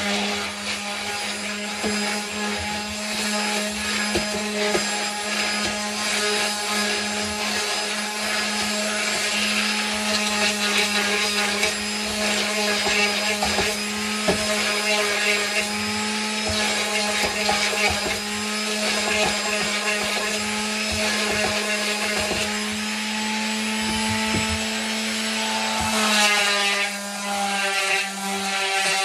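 Electric sander running steadily with 220-grit sandpaper rubbing across a wooden shelf, a constant motor hum under a gritty scraping; the motor's pitch shifts slightly near the end.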